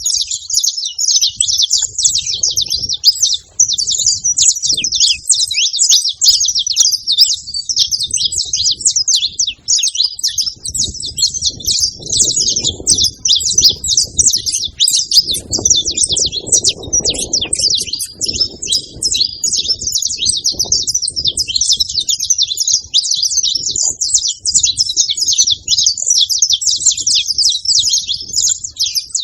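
Saffron finches, a male and a female, chirping and singing in a dense, unbroken stream of quick, high notes.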